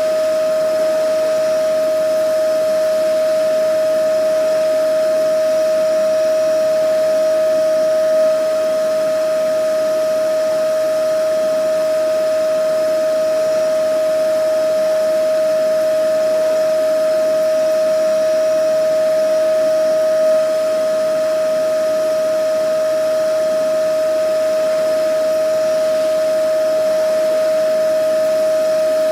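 Vacuum cleaner motor running steadily: a constant high whine over an even rush of air, with no change in pitch or level.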